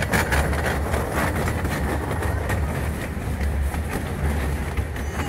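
Open passenger cars of a miniature steam railway running along the track, with a steady rumble and irregular clicking and clatter of wheels on rails.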